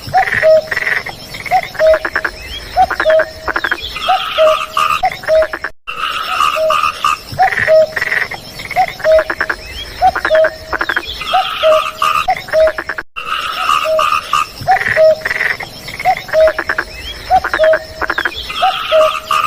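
A chorus of frogs calling: short low croaks a few times a second over fast higher trills. The sound cuts out briefly twice.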